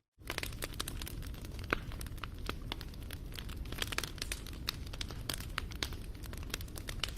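Wood fire crackling, with many sharp pops over a low rumble. It comes in after a brief moment of dead silence right at the start.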